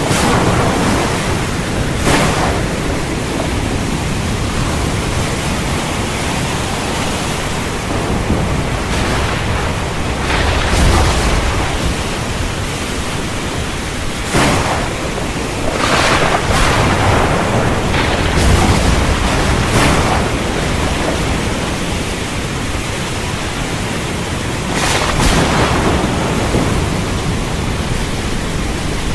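Heavy rain falling steadily, with thunder breaking through it several times as sharp cracks and low rolling rumbles.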